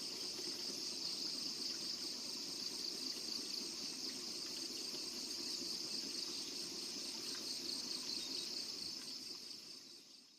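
Steady, high-pitched insect chorus over outdoor ambience, fading out near the end.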